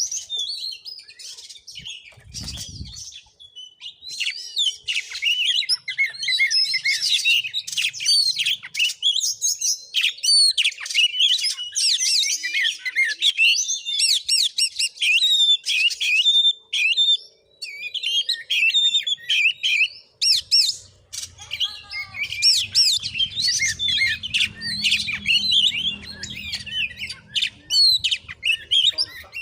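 Oriental magpie-robin (kacer) singing hard: a rapid, varied stream of high whistles, chirps and trills with only brief pauses. A faint low hum joins in the last third.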